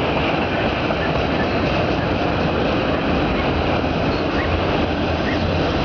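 Empty autorack freight cars rolling past at speed, a steady rumble and rattle of wheels on rail.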